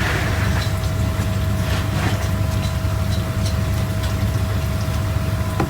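Steady low mechanical rumble with a thin steady hum over it and a few faint clicks.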